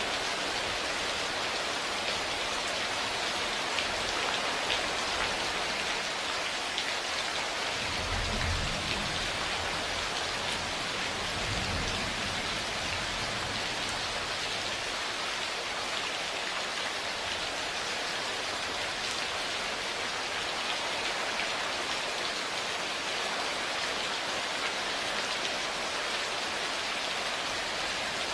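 Steady rain falling, with two low rumbles of thunder about eight and twelve seconds in.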